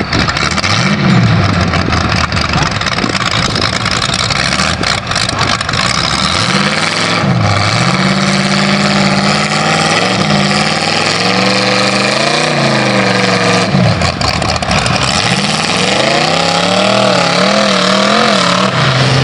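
Cummins diesel engine of a mud truck revving up and down repeatedly as it is driven through the bog, its pitch climbing and dropping several times, with the hardest runs about seven seconds in, around twelve seconds in, and again near the end. A loud, steady rushing noise runs underneath it.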